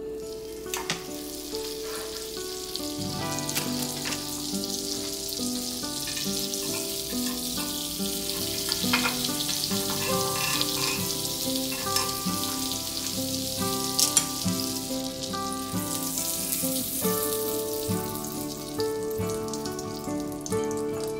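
Butter sizzling as it melts in a fish-shaped boongeobbang pan, the hiss building over the first few seconds, with a few light clicks. Background music plays throughout.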